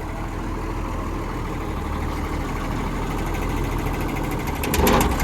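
John Deere motor grader's diesel engine running steadily. A fast light rattle joins from about three seconds in, and a brief louder burst of noise comes near the end.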